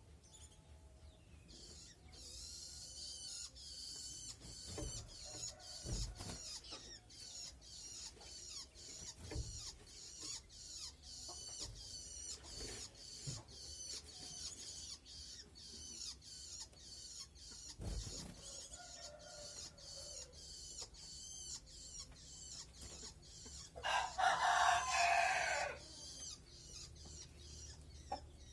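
White-eye (pleci) nestling begging: a fast, steady run of short, high, thin chirps, several a second. Near the end a rooster crows in the background for about two seconds, and there are a few dull knocks.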